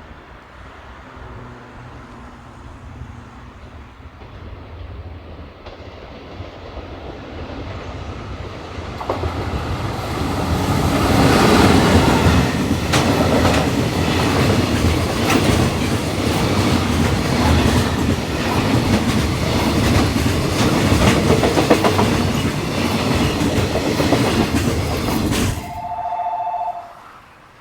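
Electric commuter train approaching and rolling along the platform, building over about ten seconds to a loud, steady rumble with rapid wheel clicks over the rail joints. The sound cuts off suddenly near the end and a brief two-note tone follows.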